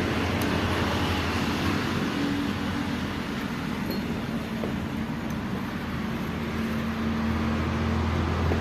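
Massey Ferguson tractor's diesel engine running steadily, a low even hum that holds throughout.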